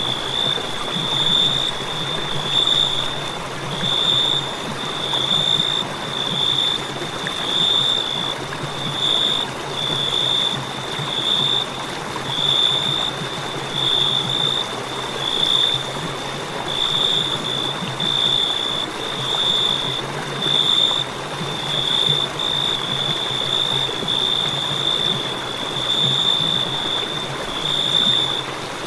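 Crickets chirping in a continuous high trill that swells in regular pulses roughly once a second, over a steady hiss.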